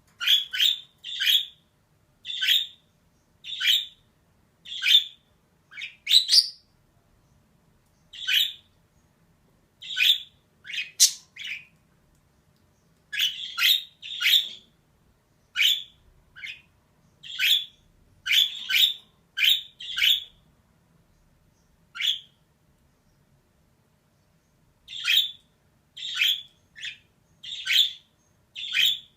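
Female budgerigar (budgie) calling: a string of short, sharp chirps and squawks, often two or three in quick succession. It falls quiet for a few seconds about three-quarters of the way through, then starts again.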